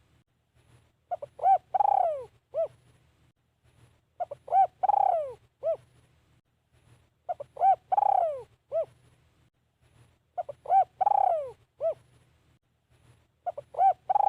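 Spotted dove cooing its song over and over: each phrase is two or three short coos, one longer coo that falls in pitch, and a last short coo, repeated about every three seconds.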